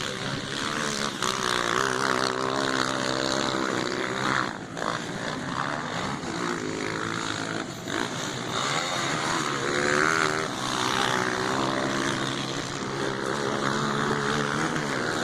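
Motocross dirt-bike engines revving, their pitch rising and falling again and again as the bikes accelerate and back off.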